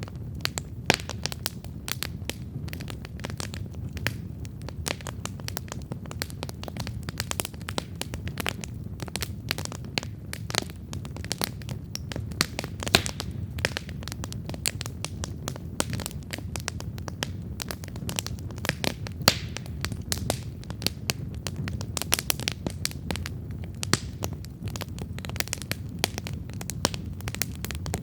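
Wood campfire burning: a steady low rumble of flames with dense, irregular crackles and a few louder pops.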